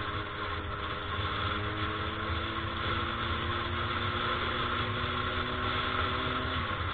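A motor vehicle engine running steadily over road noise. Its hum creeps slightly up in pitch and drops away just before the end.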